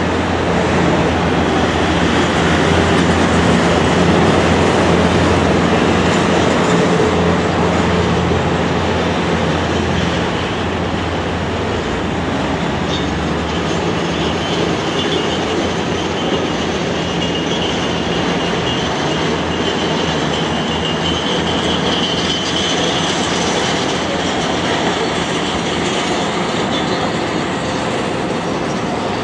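Steady rumble and hiss of a moving vehicle, with no breaks, and a low hum that shifts about halfway through.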